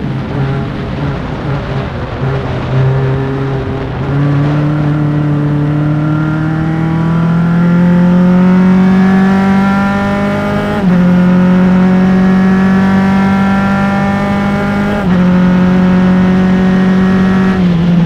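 Single-seater race car engine, close-miked, pulling hard under full throttle, its pitch climbing steadily through the gears. There are two sudden drops in pitch at upshifts, about 11 and 15 seconds in, and a further drop near the end.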